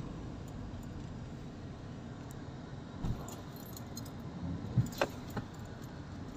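A handful of light metallic clicks and jingles between about three and five and a half seconds in, over a steady low rumble.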